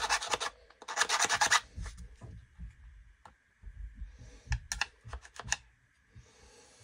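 Hand file rasping on a cracked brass eyelet in a string trimmer head: one stroke ending just after the start and a second stroke about a second in. Then a few light clicks and taps as the part is handled.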